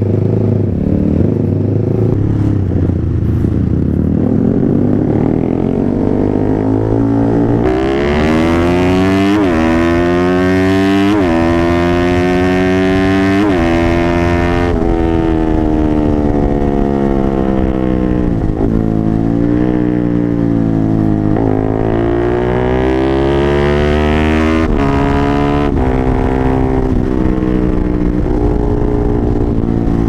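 Honda CBR150R single-cylinder engine, bored up to 180 cc, through a 3Tech EvoX X1GPR racing exhaust while riding. After a lower, rougher stretch, the bike accelerates up through the gears: the pitch rises three times and drops back sharply at each upshift. It then falls as the bike slows and climbs again.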